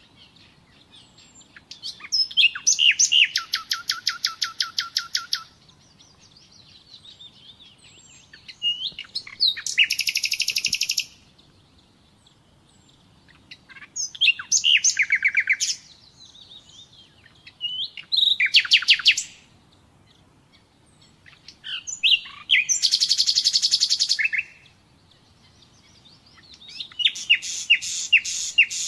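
Common nightingale singing: six phrases of fast repeated notes and trills, each one to three seconds long, separated by pauses of a few seconds.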